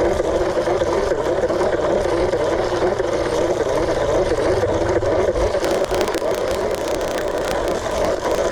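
A steady mechanical whir with a slightly wavering pitch, and a patter of faint ticks through its second half.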